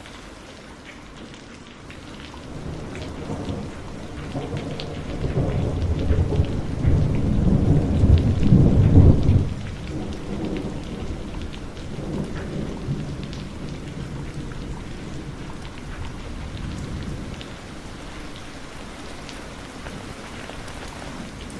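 Heavy rain falling steadily, with a long roll of thunder that builds a few seconds in, is loudest near the middle, breaks off suddenly, then trails away in softer rumbles.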